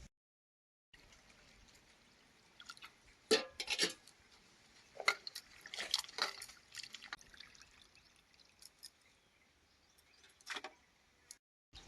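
Water splashing and pouring in a few short bursts, with sharp clinks among them.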